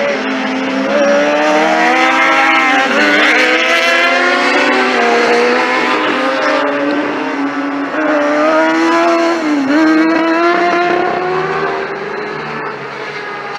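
Sport motorcycle engines on a race track, high-revving and accelerating past, with several engine notes overlapping. The pitch climbs and drops sharply twice, about three seconds in and again near ten seconds, as the bikes change gear.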